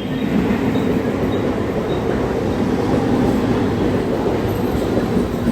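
Mumbai suburban local train running, a steady low noise of wheels and motors on the track with no distinct clacks or squeals.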